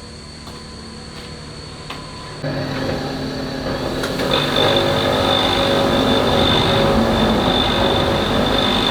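An electric grinder's motor running steadily, then starting to grind louder about two and a half seconds in, with a steady high whine joining about a second later.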